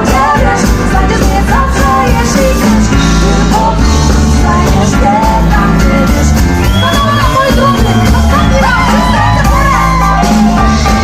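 Rock band playing, with a singer's voice over bass guitar and a steady drum beat.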